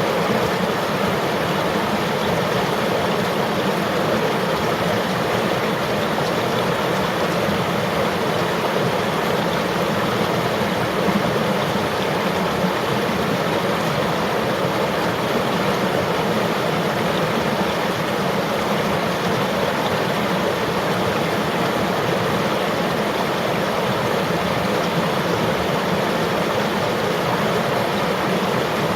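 River water flowing over rocks: a steady, unbroken rushing and gurgling.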